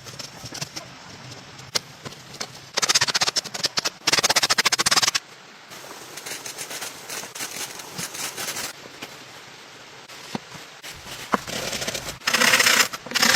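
Two bursts of rapid crackling and scraping, one about three seconds in lasting roughly two seconds and another starting near the end, with quieter stretches of scattered single clicks between.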